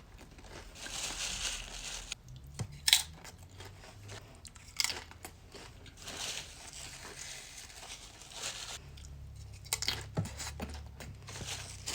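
Close-up eating sounds: crunchy food being bitten and chewed, with sharp crackling bites at intervals.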